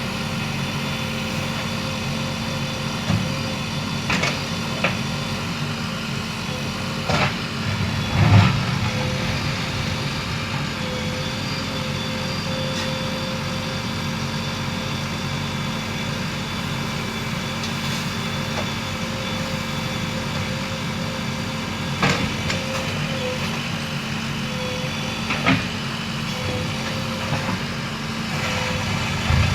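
JCB 3DX backhoe loader's four-cylinder diesel engine running steadily under work, with a handful of short clunks, the loudest about eight seconds in.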